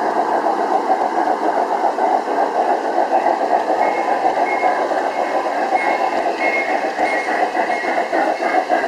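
G-scale garden railway train running along its track over a steady, dense rushing noise, with faint short high squeals coming in about halfway through.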